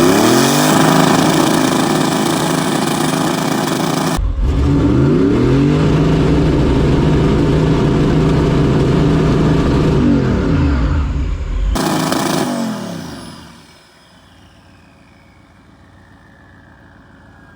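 Turbocharged V8 revving up and held at high rpm. It cuts off abruptly about four seconds in and comes back revving up, holds steady, then the revs fall away around ten to twelve seconds and the sound drops to a low level with a faint falling whine near the end.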